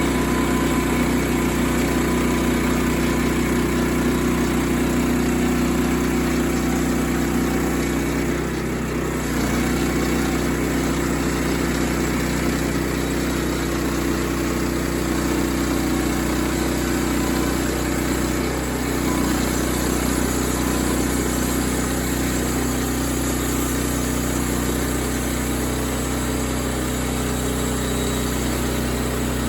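Sawmill engine running steadily at a constant speed, with two brief dips in level, about 9 and 19 seconds in.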